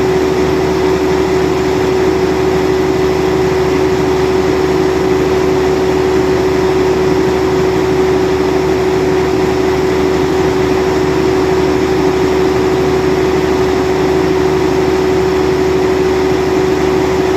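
Caterpillar generator engine running steadily with no load at about 1450 rpm. It is a loud, even drone with one strong steady tone and no change in speed.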